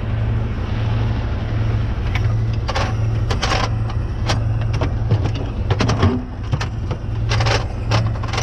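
Truck engine idling with a steady low hum, with a series of short knocks and clicks scattered through it.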